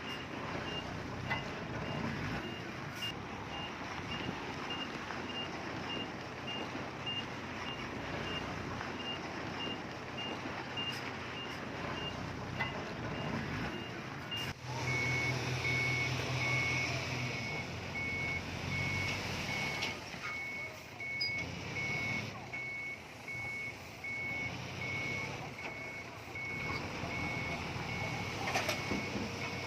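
Reversing alarms of heavy earthmoving machines beeping over diesel engines running. At first a high alarm gives short beeps about twice a second. About halfway it switches abruptly to a lower alarm with longer beeps about once a second, over a louder engine.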